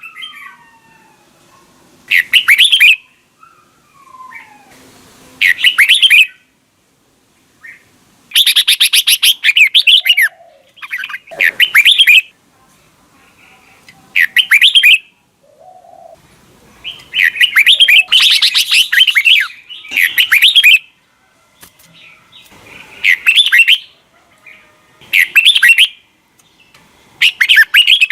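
Red-whiskered bulbul singing: loud, short warbling phrases of about a second each, repeated every two to three seconds with brief pauses between them.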